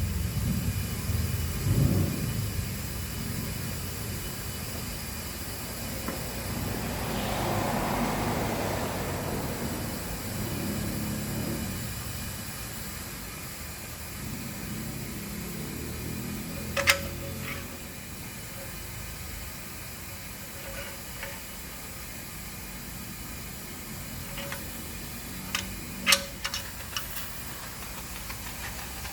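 Residual-oil extraction equipment working on the car's oil line: a low mechanical hum with a hissing rush of suction that swells and fades. Several sharp clicks come in the second half.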